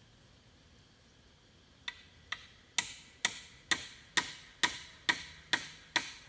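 A run of about ten sharp, evenly spaced clicks, a bit over two a second, starting a couple of seconds in; the first two are fainter and the rest are louder and even.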